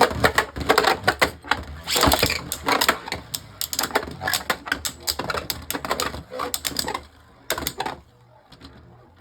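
Two Beyblade Burst spinning tops clashing in a plastic Beystadium: a rapid clatter of hard hits and scraping that eases over the last couple of seconds, with one sharp knock near the end.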